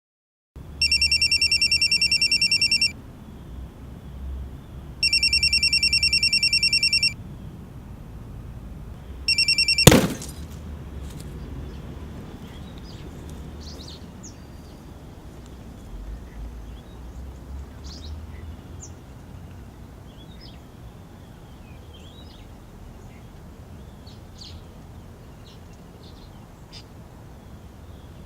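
A telephone rings twice, each ring about two seconds long, and a third ring is cut short by a sharp click about ten seconds in. After that there is only a quiet background with scattered faint high chirps.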